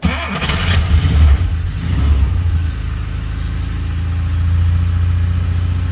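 Škoda 125L's four-cylinder engine running on a cold start at −8 °C: it comes in suddenly, runs unevenly with rising and falling revs for about two and a half seconds, then settles into a steady idle.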